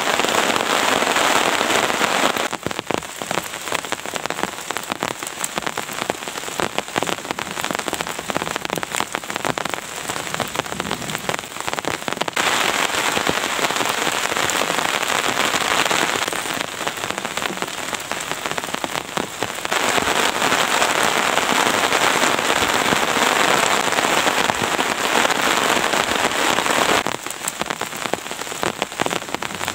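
Heavy rain falling. It switches abruptly several times between a dense, even hiss and stretches where separate drop impacts stand out.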